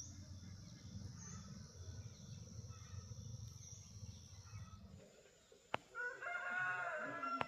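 A rooster crows once near the end: a single drawn-out call. Before it there is a steady low rumble with a thin, high, steady tone, and one sharp click just before the crow.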